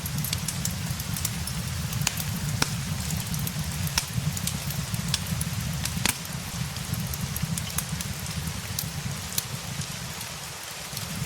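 Steady rain mixed with a crackling wood fire: a low rumble under an even hiss, with sharp irregular pops and ticks.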